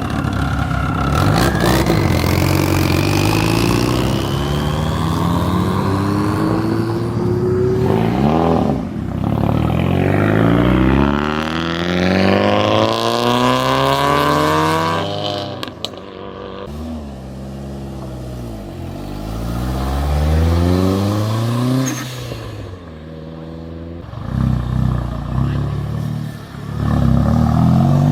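Several cars accelerating away one after another, their engines revving hard, the pitch climbing and dropping back with each gear change.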